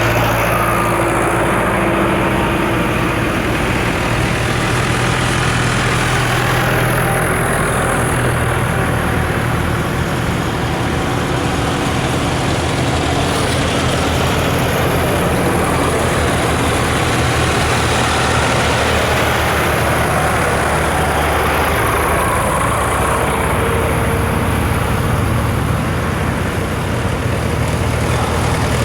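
Diesel tractor engines running with a steady, low engine note as the tractors go by on the road.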